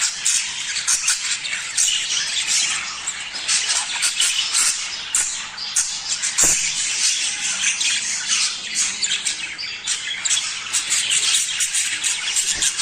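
A flock of budgerigars chattering continuously: dense, overlapping warbles, chirps and squawks with no pauses.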